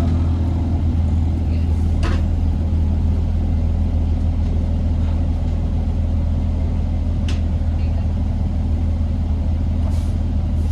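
Steady low drone of a 2008 Orion VII Next Generation hybrid bus heard from inside the cabin, its Cummins ISB diesel and BAE HybriDrive drivetrain running, with a few sharp rattles or clicks about two, seven and ten seconds in.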